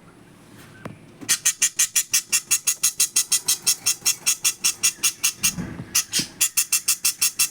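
Small pet parrot giving sharp, high-pitched calls in a fast, even series of about six a second. The calls start a second in and pause briefly a little past halfway.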